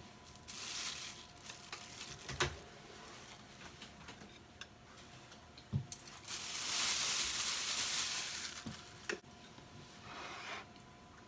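Home kitchen cooking sounds: a few light knocks and clinks, and a hissing noise that lasts about three seconds past the middle.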